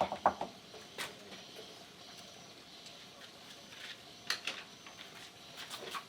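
A few sharp clinks and knocks of dishes and utensils, a quick cluster at the start (the loudest), another about a second in, and a few more around four seconds in and near the end.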